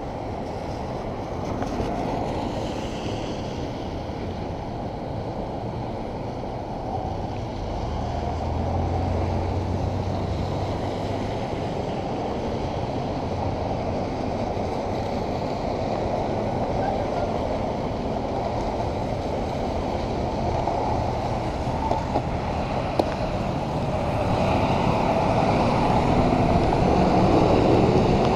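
Wind rushing over the microphone with wet road noise from riding a bicycle in the rain. A low rumble comes in about eight seconds in, and the rushing grows louder near the end.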